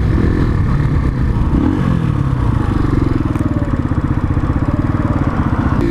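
Chinese 125cc motorcycle engine running, its pitch falling over the first couple of seconds as the bike slows, then settling into a steady, evenly pulsing beat at low revs.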